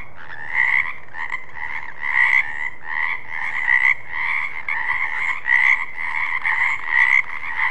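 Frogs croaking in a continuous series of calls, about two to three a second.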